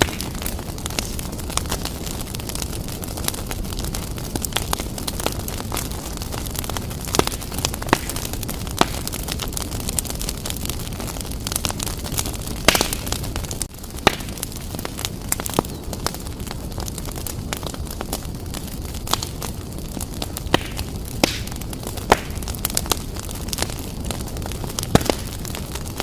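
Wood fire burning briskly in a fireplace: a steady low rumble of flames with frequent sharp crackles and pops, one louder pop about halfway through.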